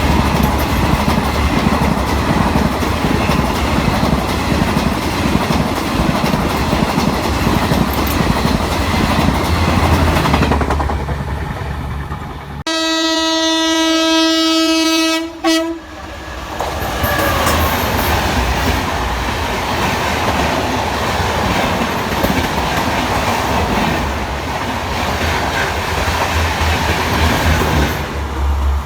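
Train passing close by, its wheels rumbling on the rails with a steady low hum. About halfway through, an electric locomotive's horn sounds one long, steady note for about three seconds, and then the noise of the passing train returns.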